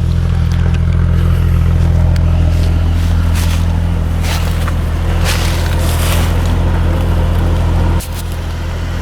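Suzuki SJ engine running with a steady low drone as the 4x4 moves over a rocky off-road trail, with scattered short crackles over it. The level drops slightly near the end.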